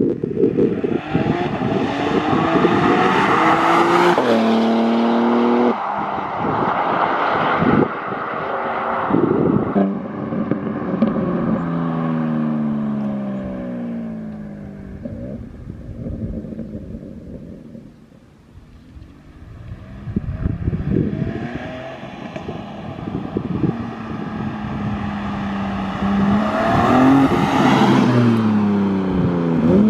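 BMW M4 Competition's S58 twin-turbo inline-six with aftermarket downpipes accelerating hard through several quick upshifts, its pitch climbing and dropping at each shift, then falling away into the distance. About two-thirds of the way through it comes back and builds to a loud close pass near the end.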